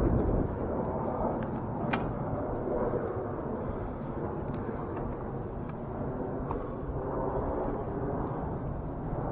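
Bicycle rolling along a dirt woodland trail: a steady rumbling rush of tyre and riding noise, with a few light clicks and ticks, a little louder in the first half-second.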